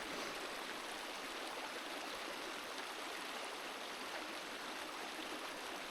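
Creek water running steadily over rocks, an even rushing hiss.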